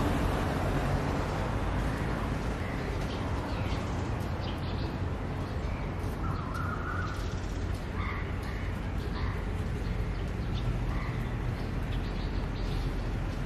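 Outdoor ambience: a steady low rumble with a few short bird calls, the longest about six seconds in and a few more over the next five seconds.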